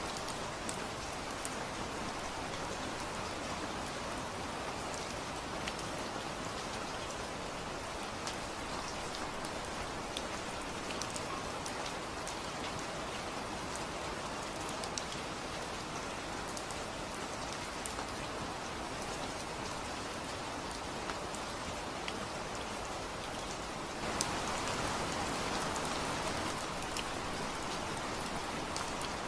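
Steady rain falling: an even hiss with scattered sharp ticks of single drops striking a surface. It gets louder about five seconds before the end.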